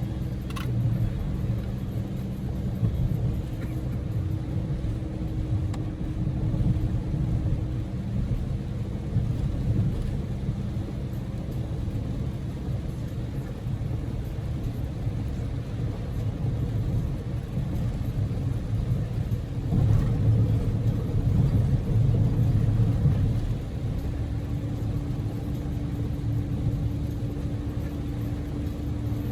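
Cabin noise inside a Daihatsu Move (L150S) driving at steady speed: a low, even road and engine rumble from its 660 cc three-cylinder EF-VE engine and tyres. A thin steady hum sits over the rumble at the start, fades out, then returns near the end.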